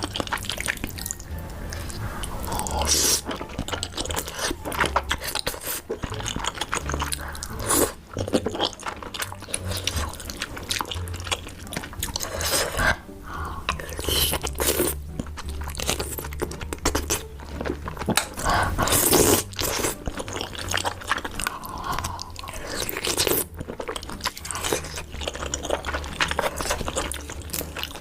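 Close-miked eating: chewing and crunchy bites of food, with irregular crackling bite sounds, over faint background music.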